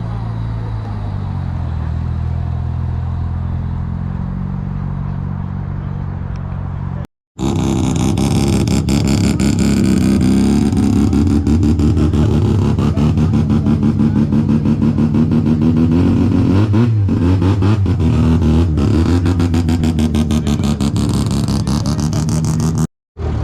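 Mazda rotary-engined car idling steadily. After a short cut about seven seconds in, a much louder rotary engine revs with a fast pulsing exhaust note, its pitch rising and falling, until another cut near the end.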